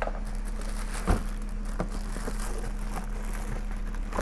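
Pressure washer parts and accessories being handled while unboxed: several light knocks, the loudest about a second in, over a steady low hum.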